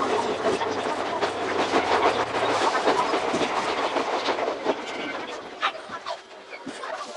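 Iga Railway 200 series electric train running on the rails, its sound sped up, so the wheels' clatter over the rail joints comes as a dense rapid rattle. It grows quieter over the last two seconds, with a steady tone coming in near the end.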